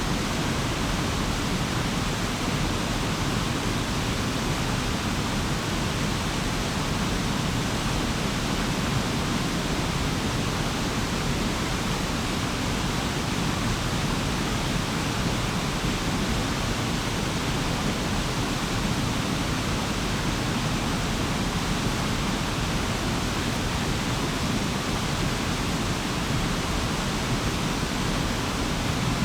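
Forest stream flowing over stones, a steady even rush of water with no change in level.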